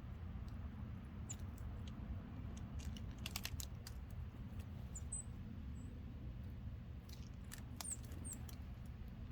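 Small wild birds at a log feeder: short, high, thin chirps several times, with scattered sharp taps and clicks of pecking at the seed, a quick cluster of them about three and a half seconds in, over a steady low rumble.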